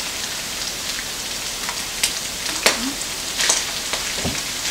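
Ground beef sizzling in a skillet, a steady hiss, with a few sharp clicks of a wooden spoon against the pan as it is stirred.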